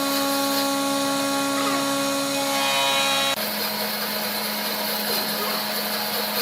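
Wood lathe motor running with a steady hum over a noisy hiss. The pitch of the hum changes abruptly a little over three seconds in.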